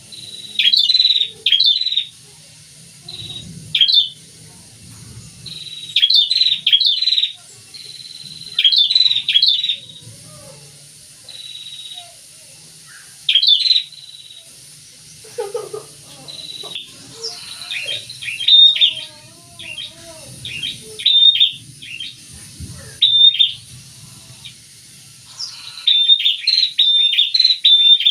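A pair of prinias calling energetically, loud sharp chirps in quick repeated bursts, sometimes overlapping, throughout.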